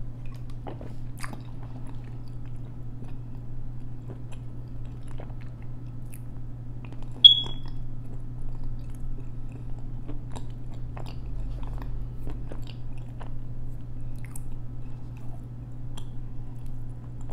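Edible clay being chewed close to a lapel microphone: scattered small crunches and mouth clicks over a steady low hum. About seven seconds in, a single short high-pitched beep, the loudest sound.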